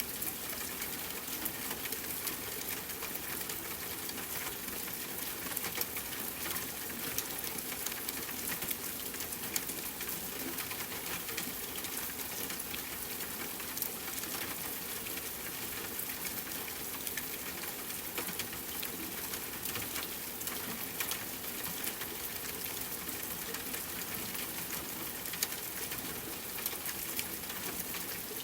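Steady rainfall hiss mixed with a crackling wood fire, with many small, quick pops and snaps over the even wash of rain.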